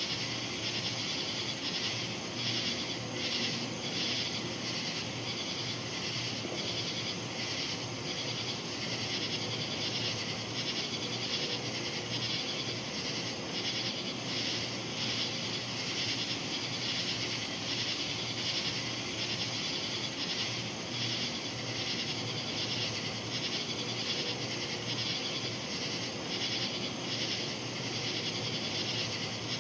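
Insects singing in a night-time chorus: a dense, steady, high trill that pulses throughout, over a faint low hum.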